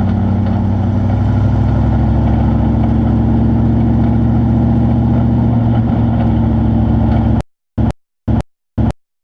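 Truck engine running steadily with a low, even hum. About seven seconds in the sound cuts off suddenly and returns only as short, regular blips about twice a second.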